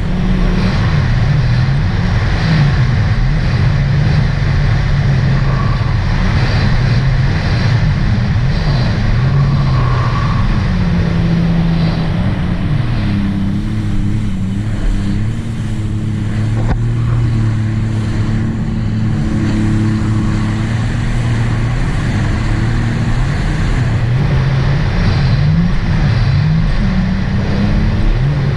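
2018 Sea-Doo RXT-X 300 jet ski's supercharged three-cylinder engine running continuously, its pitch rising and falling again and again as the throttle changes.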